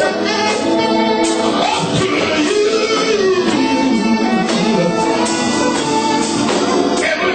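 Live gospel praise music: voices singing over a band with a steady beat.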